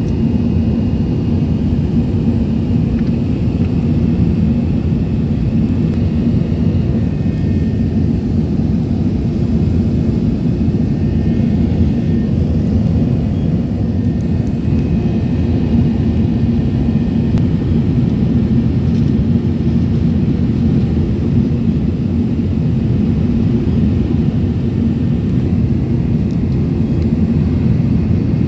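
Airbus A380 jet engines giving a steady, loud low rumble with no change in pitch, alongside a few faint high tones.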